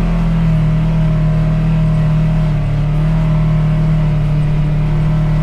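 Side-by-side UTV's engine running at a steady pitch while driving along a dirt trail, a constant low drone.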